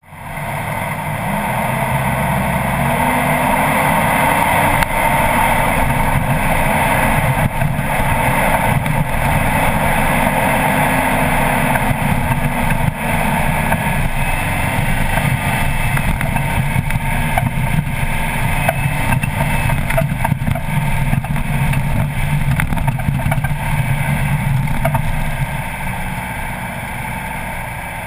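Four-wheel-drive vehicle engine pulling under load through soft sand and up a dune, its revs rising and falling a couple of times, over a steady rushing noise.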